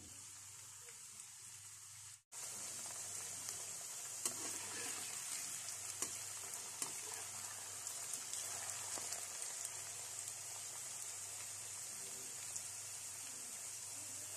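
Flour-coated potato sticks deep-frying in hot oil: a steady sizzle with scattered small pops and crackles. About two seconds in the sound cuts out for an instant and comes back louder.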